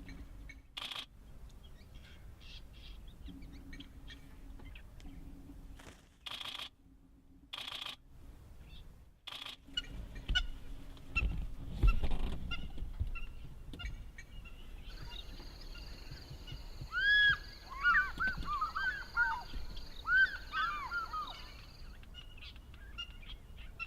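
A bird calling in a quick, dense run of short arched notes for several seconds in the second half, over a high steady hiss. Shortly before, a loud low rumble and thump, and scattered faint clicks earlier.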